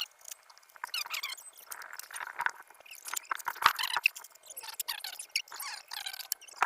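Scratchy rubbing and crinkling with scattered sharp clicks and small squeaks, from grip tape being handled and worked onto a skateboard deck.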